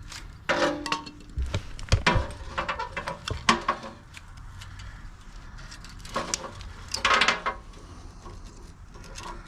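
Irregular metallic clicks and clanks of steel winch cable being worked with hand wire cutters, some strokes with a brief metallic ring, in two bunches with a lull between.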